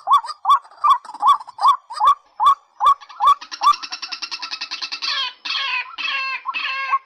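White-breasted waterhen calling: a steady series of hooked croaking notes, about two and a half a second, breaking into a fast rattling run about halfway through and then a few falling harsh notes.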